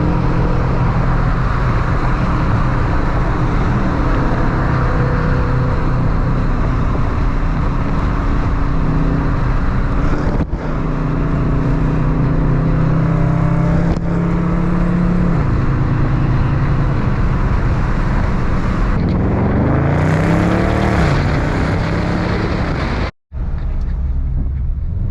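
Dodge Charger R/T's 5.7 Hemi V8 heard while driving at speed, a steady engine hum over road and wind noise. Near the end the revs climb and fall once, and the sound breaks off briefly at a cut.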